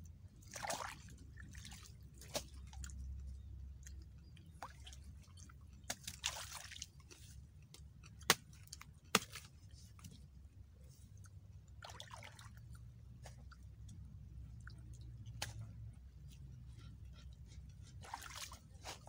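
A person eating rice and stir-fried water spinach by hand: quiet chewing and mouth sounds, with occasional soft swishes and two sharp clicks about 8 and 9 seconds in.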